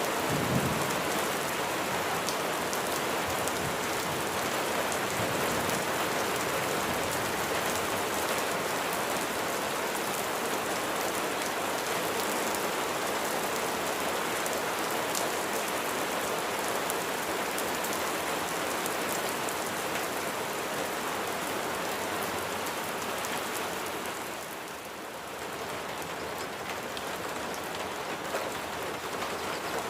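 Steady rain falling, a dense patter of drops on a hard surface. A brief low thump comes just after the start, and the rain is briefly quieter about 25 seconds in.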